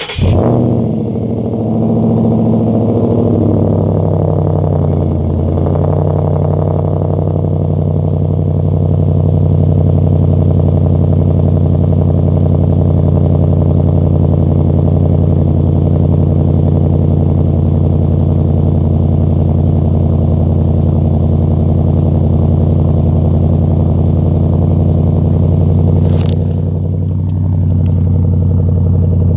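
2012 Ford Mustang GT's 5.0 V8 through Flowmaster Outlaw axle-back mufflers, cold-started and catching just as the sound begins. Its fast cold idle settles down over the first few seconds into a steady idle with no revving. Near the end there is a short knock and the engine sound dips briefly.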